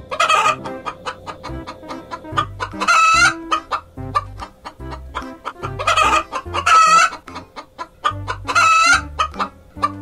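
Domestic hen clucking, with a louder call every few seconds.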